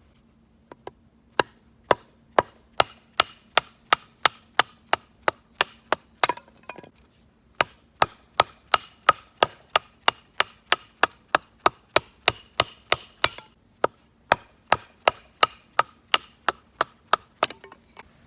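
Rapid, regular hammer strikes, about two to three a second, each with a brief ringing note, in three runs separated by short pauses.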